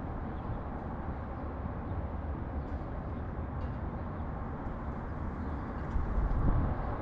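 Steady low rumble of city traffic, swelling louder for a moment near the end as a vehicle passes close.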